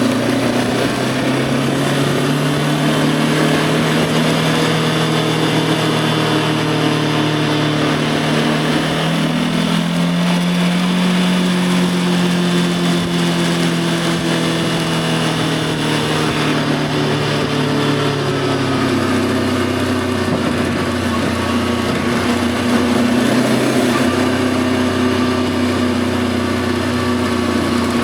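Voge 525 DSX's parallel-twin engine running under way. Its note climbs slowly to about ten seconds in, drops off over a few seconds in the second half, then holds steadier at a lower pitch, over a constant hiss.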